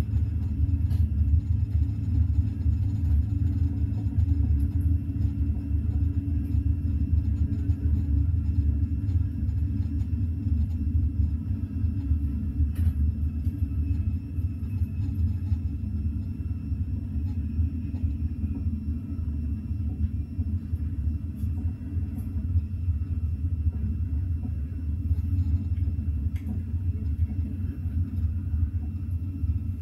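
Steady low rumble of a Eurostar Class 373 train running at speed, heard from inside the passenger carriage.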